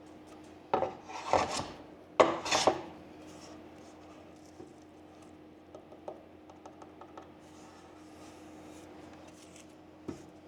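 A hand tool scraping over the wood of a snooker cue butt in three quick strokes, then a few light taps and ticks. A faint steady hum runs underneath.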